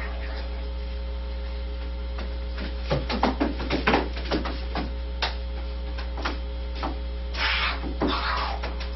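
Steady electrical hum, with a flurry of sharp clicks and scrapes about three to five seconds in as large birds scuffle on wooden floorboards at a feeding. Near the end come two breathy rushes as one bird spreads and flaps its wings.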